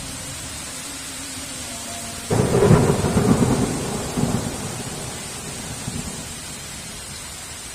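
Steady heavy rain with a thunderclap that breaks suddenly about two seconds in. The thunder rumbles on with a second surge and fades over the next few seconds.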